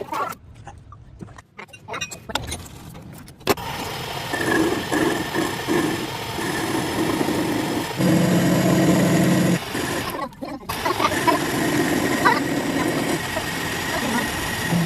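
Workshop machinery running, with scattered clicks before it starts about three and a half seconds in and a brief break about ten seconds in.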